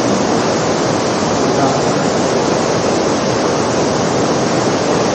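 Steady, dense rush of artificial rain pouring onto a hard floor, an even hiss of water that cuts off suddenly near the end.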